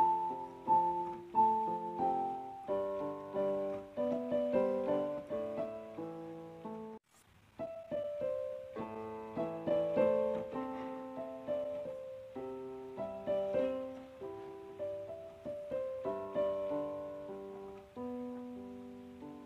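Background piano music: a slow, gentle melody of struck notes over soft chords, with a short break about seven seconds in before it carries on.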